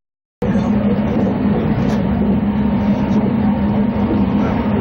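Steady running noise of a passenger train heard from on board: a constant rumble with a low hum, cutting in abruptly just after the start.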